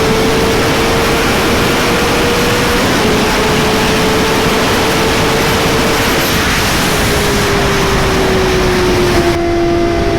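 Suzuki GSX-R 600 inline-four engine holding a steady high-revving note at speed, under a heavy rush of wind on the microphone. The engine note eases gradually lower over the last few seconds.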